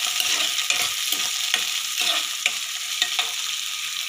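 Chopped tomatoes and green chillies sizzling steadily in hot oil in a kadhai. They are stirred with a metal slotted skimmer that clicks and scrapes sharply against the pan several times.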